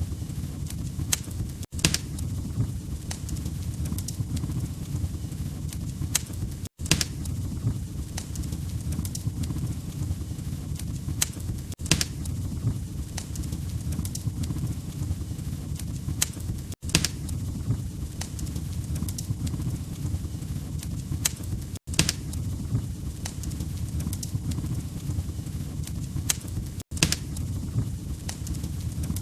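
Wood fire crackling in a fireplace: a steady low rumble of burning logs with sharp pops and snaps scattered throughout. The sound cuts out briefly about every five seconds.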